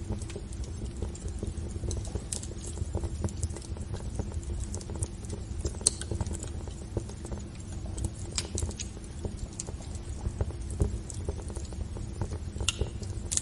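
Wood fire burning in a fireplace: irregular crackles and pops over a steady low rumble of the flames, with a sharper pop about six seconds in and another near the end.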